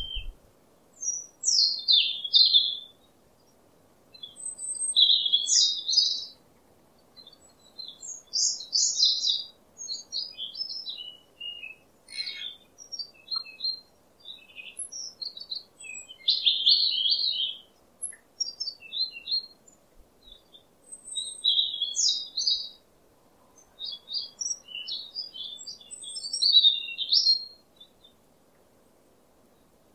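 Small birds chirping and twittering in short, high-pitched phrases, one after another with brief gaps between them.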